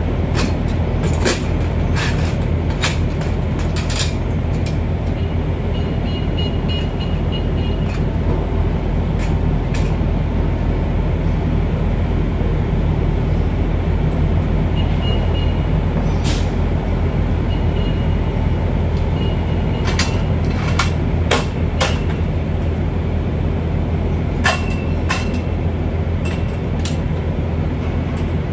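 Steady low drone of a heavy truck's diesel engine running, with scattered sharp clicks and knocks, several close together about twenty seconds in, and faint short high beeps now and then.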